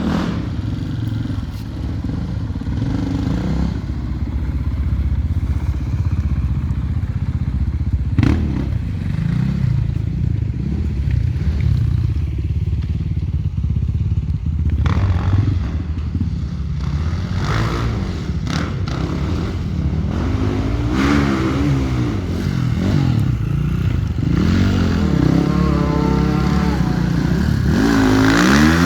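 Enduro dirt bike engines running, with the pitch rising and falling again and again in the second half as the throttle is worked, and one bike getting louder and revving up near the end. A single sharp knock about eight seconds in.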